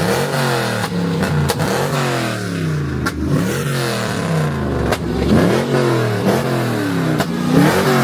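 Hemi V8 car engine revved over and over, about once a second, its pitch jumping up and sliding back down each time.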